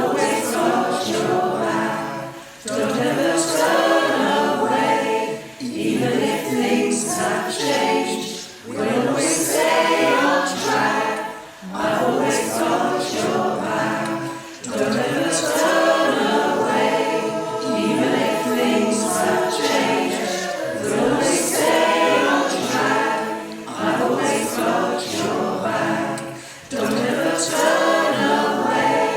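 Choir singing in harmony, in phrases a few seconds long with brief pauses between them.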